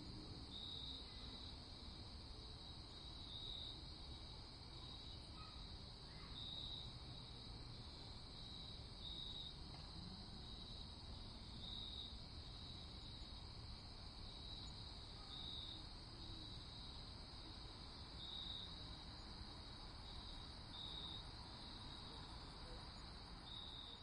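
Faint night ambience of crickets: a steady high-pitched trill with louder chirps every second or two, over a low, even hiss.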